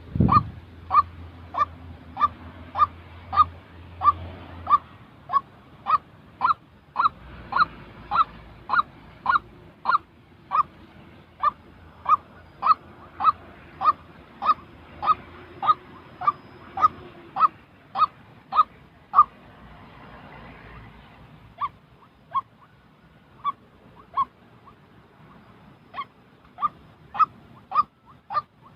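White-breasted waterhen (chim quốc) calling: short, clipped notes repeated about one and a half times a second. The calls stop for a couple of seconds about two-thirds of the way through, then pick up again more sparsely.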